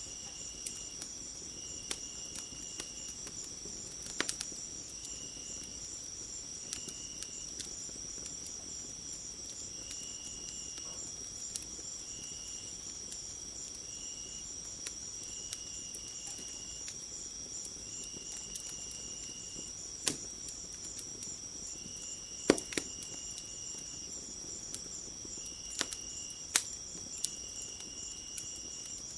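Crickets or other insects chirring steadily and high-pitched, with a second insect trilling in short bouts every second or so. Over them a fire crackles with scattered sharp pops, a few louder than the rest.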